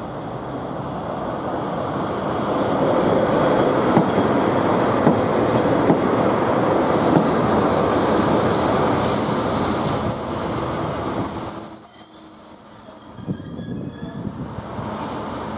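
British Rail Class 142 Pacer diesel railbus running past close by, its rumble rising for the first few seconds as it nears, with a few sharp knocks from the wheels. About ten seconds in, a steady high squeal from the running gear holds for a few seconds, and then the noise drops away.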